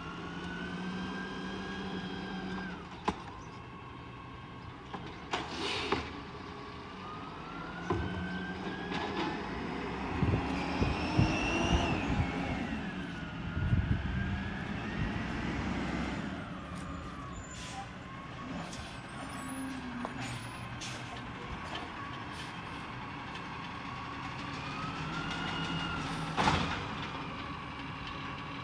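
Peterbilt 320 refuse truck revving up and down several times as the Amrep elliptical packer body's hydraulics cycle to mix the load, with a whine that rises and falls with each rev. A few sharp bangs and knocks are heard, one near the start, one about five seconds in and one near the end.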